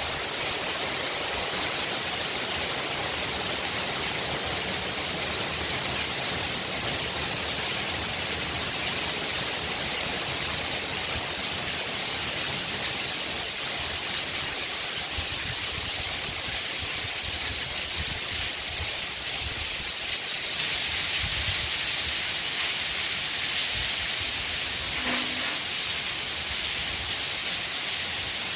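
Heavy rain falling, a steady even hiss. It gets a little louder about two-thirds of the way through.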